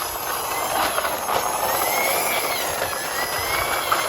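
A toy police van's built-in electronic sound effect: a steady, noisy engine sound with a siren tone slowly rising and falling over it.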